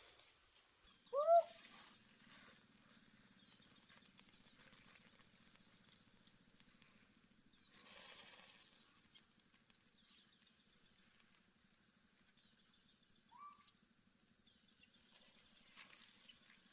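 Rural outdoor ambience with a short animal call about a second in and a fainter one near the end. Under them run a low pulsing hum and a high chirring that comes and goes in stretches.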